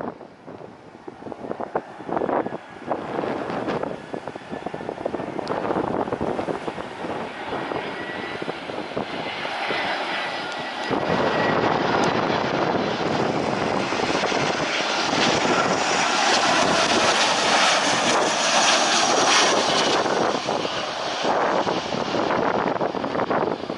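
Airplane engines passing: a rushing engine noise with a faint whine that builds from about nine seconds in, is loudest in the second half, and eases near the end, with gusts of wind on the microphone early on.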